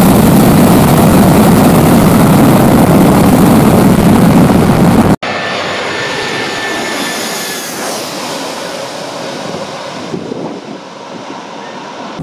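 Jet aircraft engines at close range: a very loud, even rush of noise that cuts off abruptly about five seconds in. It is followed by a quieter jet sound with a faint high whine that slowly fades away.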